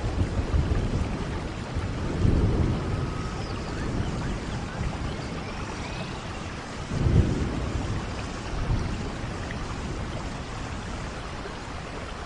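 Steady rain falling in a forest, with two low rumbling swells about two and seven seconds in, the second the louder.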